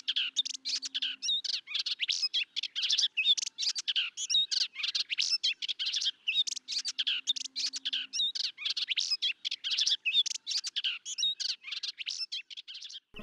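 Birds chirping and trilling: a dense, continuous run of short, quick high-pitched chirps.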